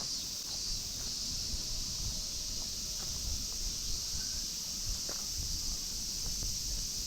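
A steady, high-pitched drone of summer cicadas, with soft footsteps of someone walking underneath.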